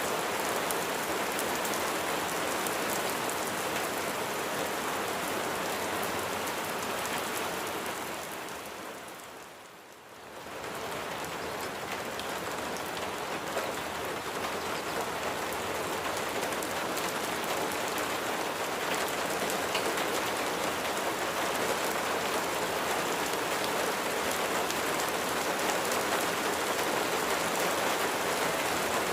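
Steady rain falling on a surface, a dense hiss with fine drop ticks. About a third of the way through it fades down briefly and swells back to the same steady level.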